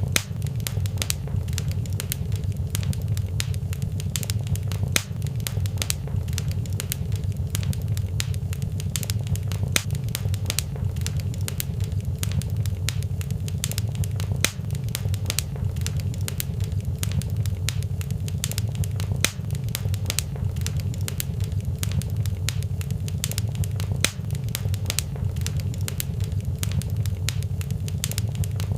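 Fireplace fire crackling, with many irregular sharp pops over a steady low rumble.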